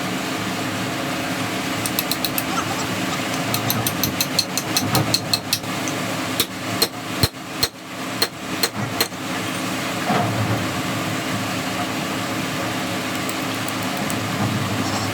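A series of sharp metal hammer strikes: a quick run of taps about two seconds in, then a longer, heavier series of blows from about four to nine seconds, over a steady mechanical hum.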